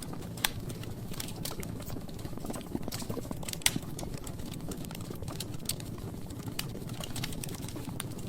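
Logs burning in a fireplace, crackling: irregular sharp pops and snaps over a low steady rumble of the flames, with the loudest pops about half a second in and a little before the middle.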